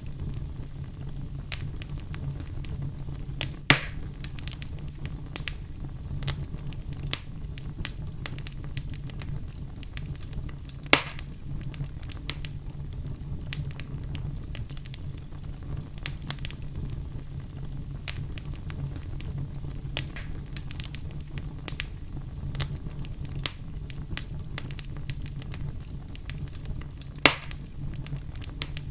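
Wood fire burning in a fireplace, crackling steadily with many small snaps and three sharp, louder pops, over a steady low rumble.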